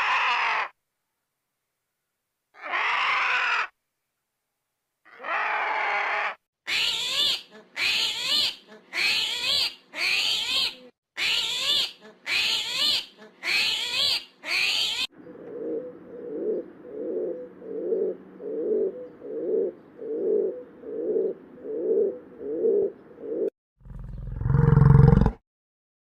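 A string of animal calls: three separate cries, then a run of short rising calls at about one a second, then a lower call pulsing about one and a half times a second. Near the end comes a loud, deep roar-like call.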